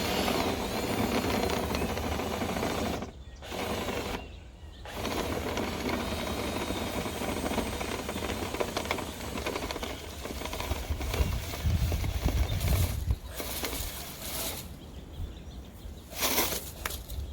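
Drill spinning the dryer-vent cleaning brush on its rods in the duct, a steady mechanical whirring that stops briefly twice near the start.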